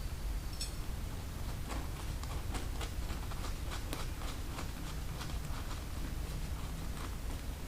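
Scattered light clicks and taps from handling a motorcycle tire's inner tube, valve stem and small parts, about a dozen at uneven intervals over a low steady hum.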